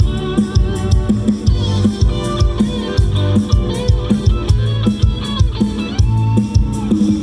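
Band music with no vocals: guitar melody over drum kit and bass with a steady beat.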